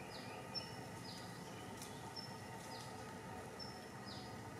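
A bird calls repeatedly in the background: a short high note followed by a quick falling chirp, about every one and a half seconds, over a steady outdoor hum.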